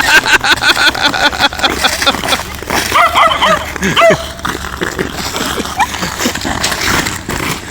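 Ice skate blades scraping and knocking on a crust of ice over snow, with short high yips from a dog about three to four seconds in.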